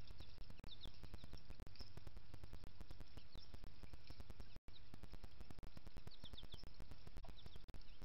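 Small wild birds giving brief high chirps, singly and in quick twos and threes, several times, over a steady low rumble and a dense crackle of clicks.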